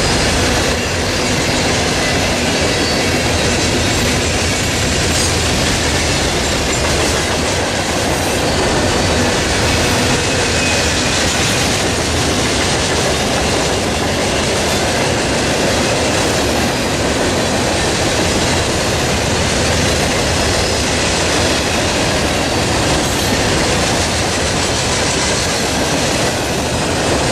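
Freight train cars rolling past close by: a steady, loud clatter of steel wheels on the rails.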